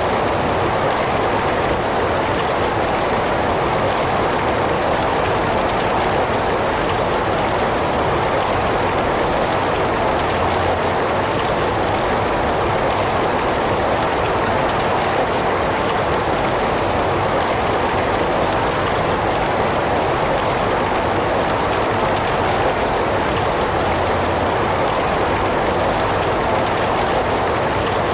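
Steady heavy rain, an even unbroken hiss of rainfall with its weight in the middle range and no distinct drops standing out.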